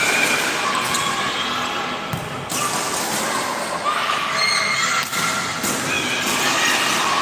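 Volleyball rally in an echoing sports hall: a few thuds of the ball over steady crowd chatter and shouts.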